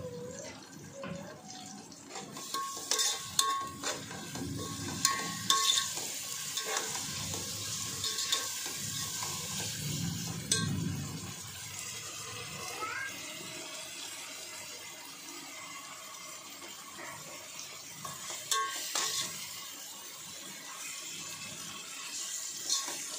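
Spice masala sizzling and frying in a large aluminium pot as it is stirred with a metal slotted spoon, with several metal clanks and scrapes of the spoon against the pot, the loudest a few seconds in.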